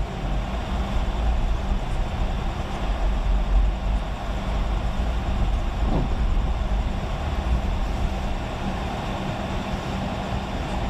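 Steady road and engine noise of a vehicle driving on the freeway, heard from inside, with a deep rumble underneath and a brief sliding tone about six seconds in.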